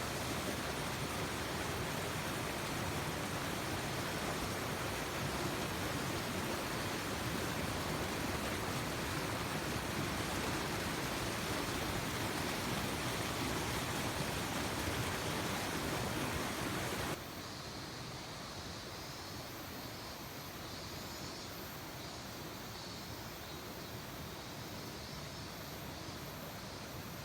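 Mountain stream rushing past a small rapid, a steady hiss of water; about two-thirds of the way through it drops abruptly to a quieter, softer rush.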